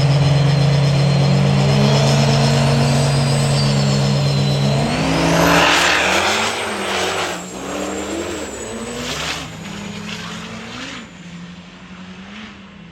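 High-horsepower diesel truck engine held at high revs under load, with a high turbo whistle rising over it. About five seconds in it lets off. The engine note then wavers and fades away.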